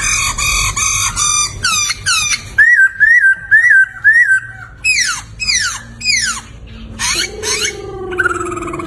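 Poksay (laughingthrush) singing a loud, varied whistled song. It gives a run of four rising-and-falling notes, then several sharply falling slurred whistles, and near the end a long, low falling whistle.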